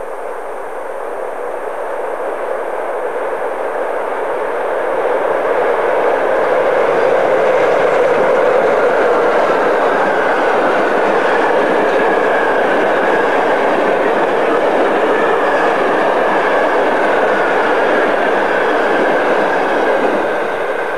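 Electric-locomotive-hauled passenger train passing close by: the rolling noise of steel wheels on the rails builds over several seconds as the train approaches, then stays steady as the coaches go past, easing slightly near the end.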